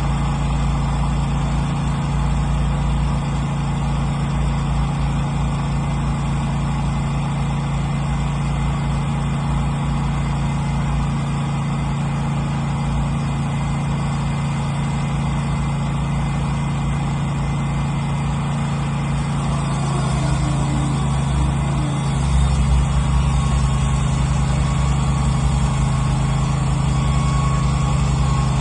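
Wood-Mizer LT15 portable band sawmill running with a steady motor hum, growing louder and deeper about twenty-two seconds in.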